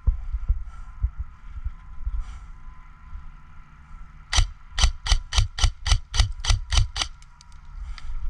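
Airsoft gun firing a rapid string of about eleven shots, roughly four a second, starting a bit past the middle, over a low rumble.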